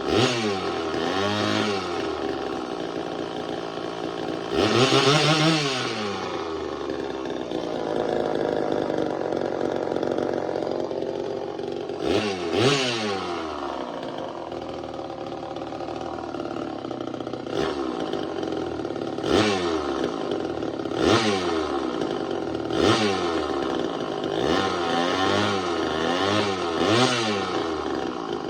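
Craftsman (Poulan-built) two-stroke chainsaw engine running, revved up and back down again and again, with steadier lower-speed stretches in between.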